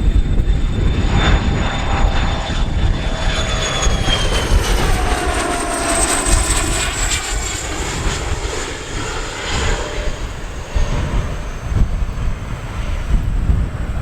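An airplane passing close by, its engine whine sliding down in pitch as it goes past and then fading. A constant rumble of strong wind buffets the microphone throughout.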